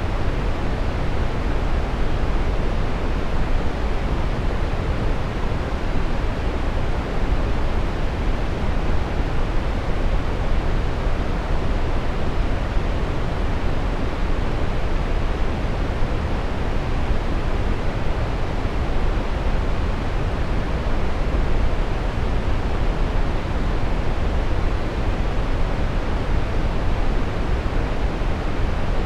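Steady brown noise: an even, unchanging rush with most of its weight in the low end, fading toward the highs.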